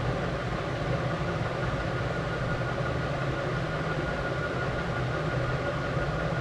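A steady low mechanical rumble with a thin, steady high whine above it, unchanging throughout.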